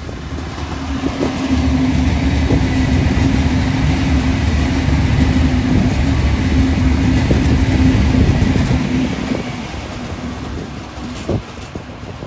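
V/Line VLocity diesel multiple unit passing at speed: a steady engine hum over wheel-on-rail noise. It builds over the first two seconds, stays loud, then fades from about nine seconds in as the train draws away, with a single knock about eleven seconds in.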